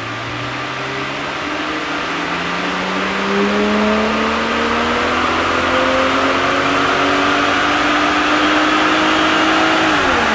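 BMW B58 turbocharged inline-six engine in a 630i GT pulling at full throttle, its pitch climbing steadily through one long run up the rev range. It drops sharply near the end as the throttle is released.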